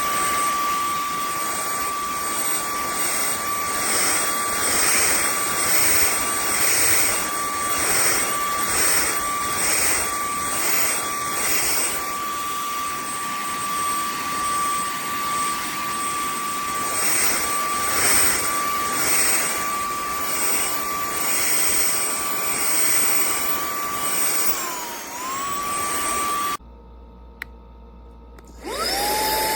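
Cordless handheld vacuum's motor running with a steady high whine. Near the end the pitch dips, the motor stops for about two seconds, then spins back up and settles to a lower-pitched whine, as when switched to another speed.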